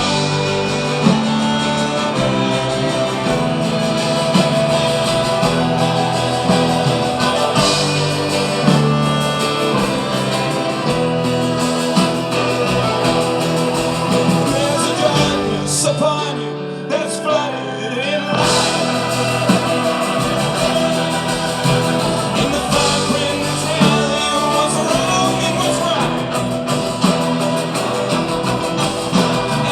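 A band playing a song, with singing over guitar; the music thins out briefly a little past halfway.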